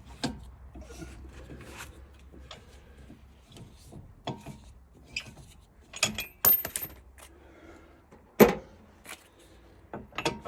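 Metal hand tools and steel wheel nuts clinking and clattering as the wheel nuts are undone with a socket, with a loud sharp clank late on.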